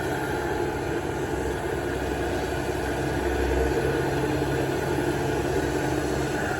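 Heavy diesel construction machinery running steadily at a dirt-loading site, with a low engine hum that changes pitch a few times.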